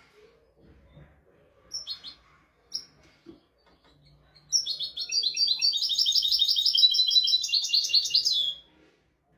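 European goldfinch singing: a few short chirps about two seconds in, then a fast run of high twittering notes lasting about four seconds.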